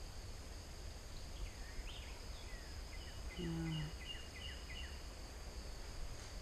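A songbird singing a phrase of short, repeated chirping notes over a steady high insect drone, with a short low hum about halfway through.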